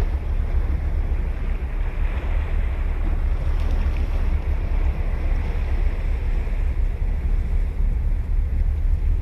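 Ocean waves washing onto a beach, the surf swelling for a few seconds partway through, over a steady low rumble of wind buffeting the microphone.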